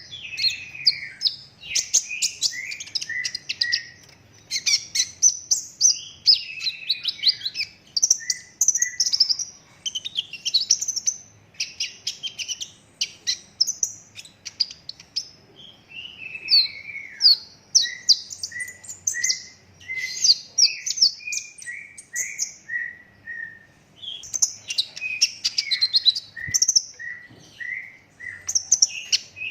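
A kolibri ninja sunbird (konin) singing nonstop in a long, rapid rolling song of high, tightly packed chirps and trills. Midway comes a run of short notes that step down in pitch, before the fast chirping picks up again.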